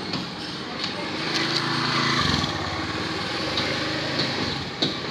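A small engine running steadily, swelling louder about two seconds in and easing off near the end.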